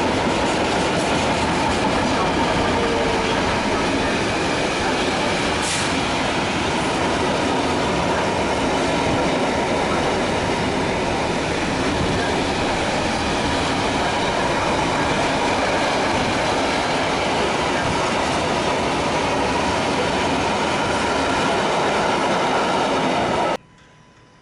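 A train running through a railway station, with a steady loud rush of wheels on rails and a faint thin squeal. It cuts off suddenly near the end.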